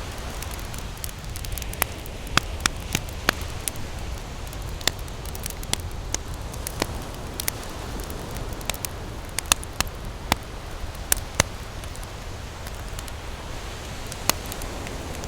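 Wood campfire crackling, with sharp irregular pops and snaps, over a steady low rumble of ocean surf.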